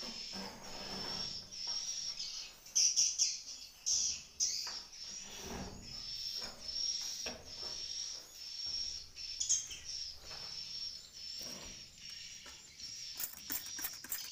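Swiftlets twittering inside a swiftlet nesting house: a high-pitched chirp repeats about once a second, with a run of rapid sharp clicks near the end.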